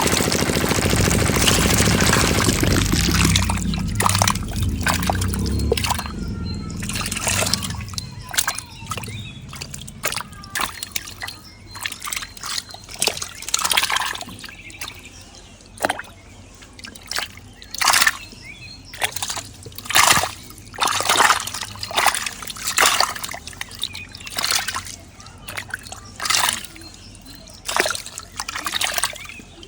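Small diesel engine of a miniature water pump running, then dying away over the first several seconds. Irregular splashes and sloshing water follow, one every second or so.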